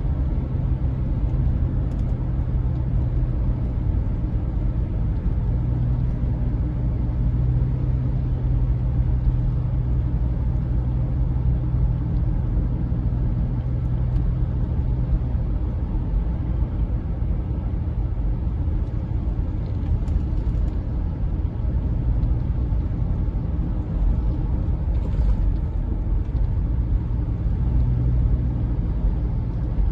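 Steady low rumble of a vehicle engine running, with a constant low hum and no changes in pace.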